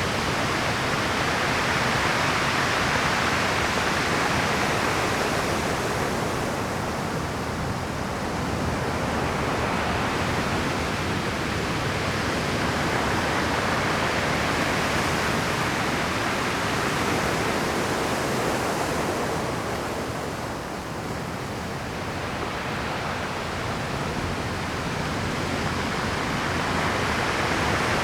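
Rough Pacific surf breaking on shore rocks: a continuous wash of crashing water that swells and eases, building to a peak about every twelve seconds.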